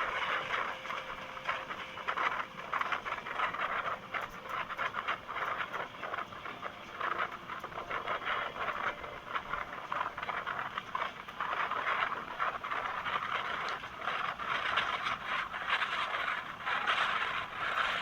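Indian Railways express train running at speed: a continuous rattling clatter of wheels on rails and coach bodywork, with many small irregular clicks and no let-up.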